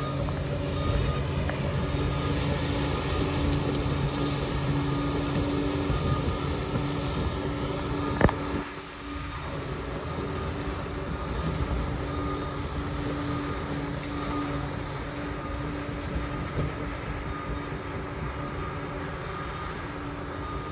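Liebherr 746 crawler dozer running steadily under work, its engine hum mixed with machine and track noise. A single sharp knock comes about eight seconds in, and the noise briefly drops right after it.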